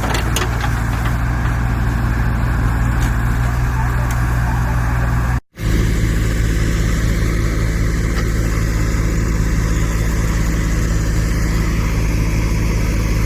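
Massey Ferguson tractor's diesel engine running steadily under load. The sound cuts out completely for a moment about five and a half seconds in, then carries on.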